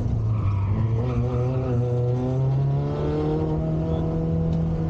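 Peugeot 106 Rallye's four-cylinder engine, heard from inside the cabin, pulling hard under acceleration, its pitch rising steadily for a couple of seconds and then levelling off.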